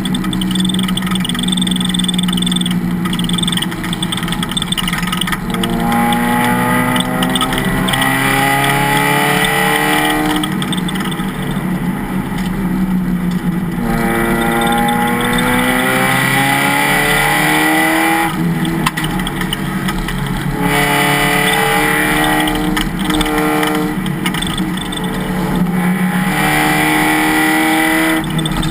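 Race car engine under hard acceleration: its pitch climbs repeatedly through the gears, broken by short gear changes and lifts where the pitch drops before it climbs again.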